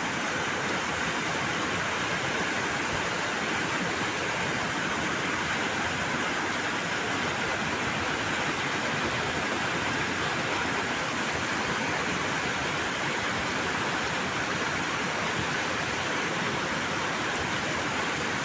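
Floodwater rushing steadily, an even unbroken hiss with no pauses.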